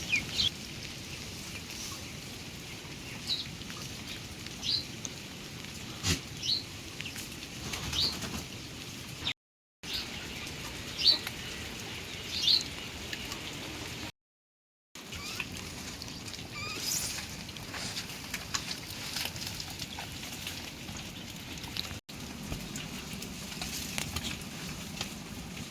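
Steady patter of rain with short, high bird chirps every second or two. The sound drops out briefly twice.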